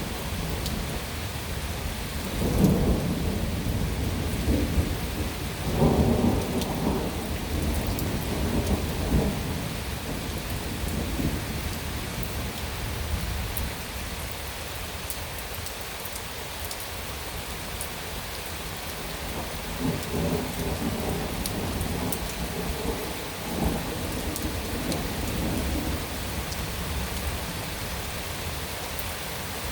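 Heavy rain pouring steadily, with rolls of thunder rumbling over it: a loud roll a few seconds in, another around six seconds, and more about twenty seconds in.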